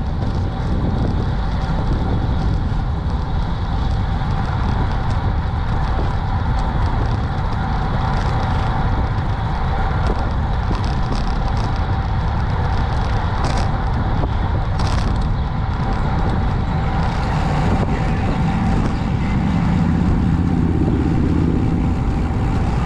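Steady road noise: a continuous low rumble of traffic and wind, with a few faint clicks.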